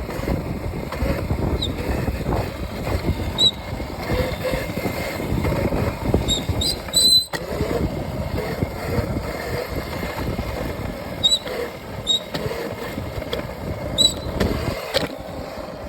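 Modded Razor electric dirt bike being ridden over dirt: wind rumbling on the microphone and tyre noise, with a faint electric motor whine that rises and falls.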